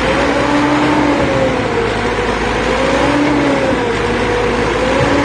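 Cotton-bale loading machine working under load as it pushes bales into the truck: its engine runs hard with a loud whine that slowly rises and falls, and a lower tone that comes and goes about every second and a half.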